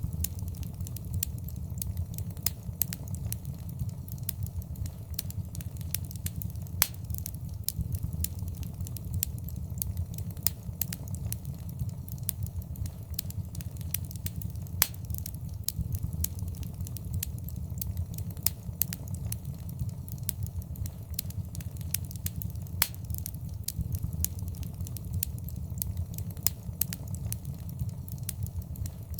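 Fireplace fire crackling: irregular sharp pops and snaps over a steady low rumble of burning.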